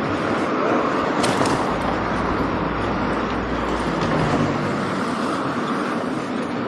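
Steady running noise of a vehicle in motion: a continuous rumble and hiss with a few faint clicks.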